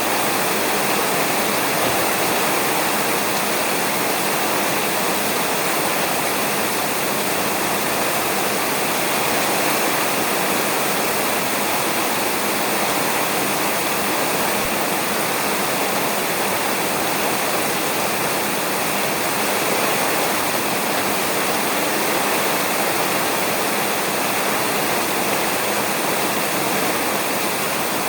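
Rain falling steadily on a roof: an even, unbroken hiss with no thunder.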